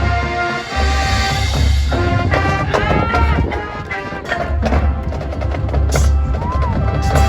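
Marching band playing its field show: brass and woodwinds holding and bending pitched lines over a heavy bass, with drumline and front-ensemble percussion hits.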